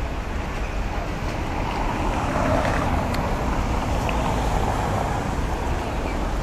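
Mercedes SL65 AMG's twin-turbo V12 engine running under a steady low rumble, swelling louder about two seconds in and easing back about a second before the end.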